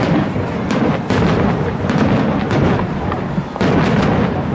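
Aerial fireworks display: shells bursting in a string of bangs over continuous crackling and rumble.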